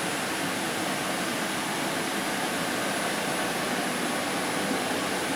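Steady running noise heard inside the cabin of a Fukuoka City Subway Nanakuma Line linear-motor train moving through the tunnel, with a thin high whine above it.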